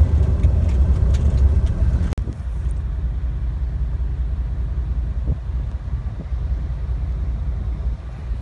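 Vehicle rumble as heard inside a moving car: a strong low rumble with a few light ticks, which changes abruptly about two seconds in to a steadier, somewhat quieter rumble.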